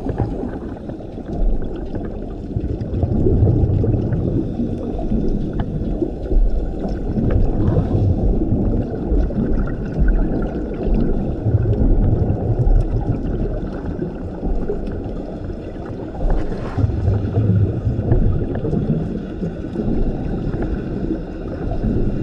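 Underwater sound of a scuba diver's regulator breathing and exhaled bubbles: a steady low rumbling noise that swells twice.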